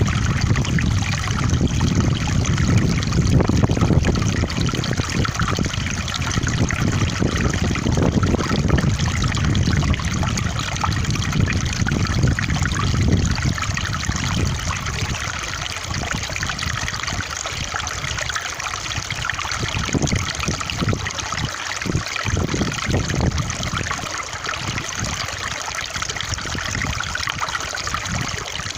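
Stream water trickling and running steadily over stones. A deeper low rush under it in the first half fades away about halfway through.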